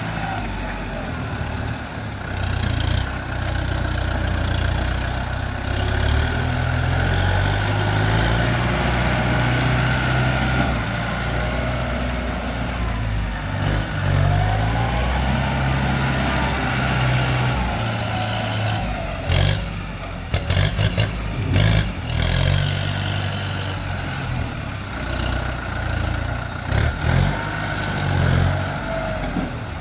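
Kubota M108S tractor's diesel engine working under load as it pushes mud, its note rising and falling as it is throttled up and down. A cluster of knocks and rattles comes about two-thirds of the way through, and another near the end.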